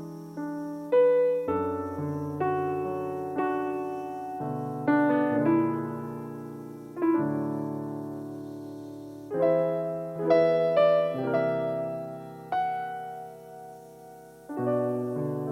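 Piano playing a slow, gentle piece: notes and chords struck every second or so, each ringing on and fading before the next.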